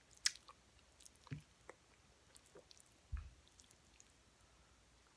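Close-miked chewing of a mouthful of cooked greens: soft, wet mouth clicks and smacks. There is a sharp click about a quarter second in and a low thump about three seconds in.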